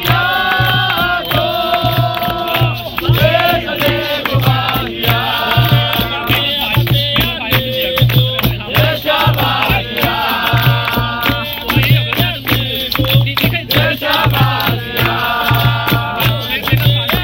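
Capoeira roda music: a group singing held chant lines over the bateria, with a steady low drum beat and shaken and rattling percussion such as the berimbau's caxixi and the pandeiro.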